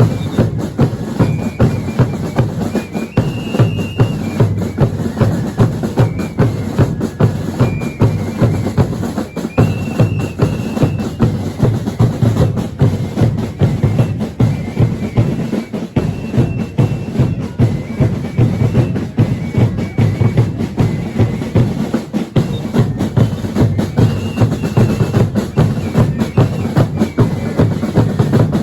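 Drum band of a Chilean baile religioso playing a steady marching rhythm on bass drums and snare-type drums, with loud beats about twice a second. Short high piping notes sound now and then over the drumming.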